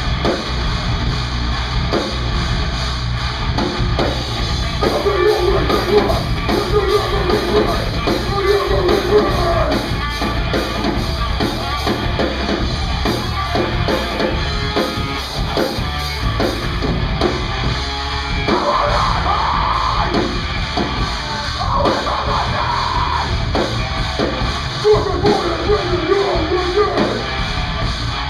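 Live heavy rock band playing loud, with drum kit and a wavering melodic line over the band.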